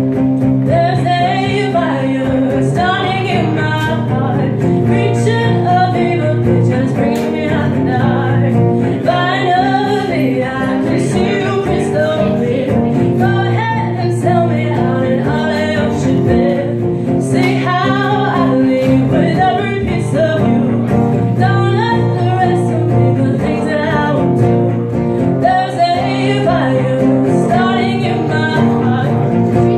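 Live singing with guitar accompaniment.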